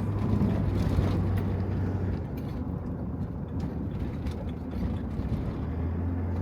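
Van engine running, heard from inside the vehicle: a steady low hum that weakens for a few seconds in the middle and then comes back, with a few faint clicks.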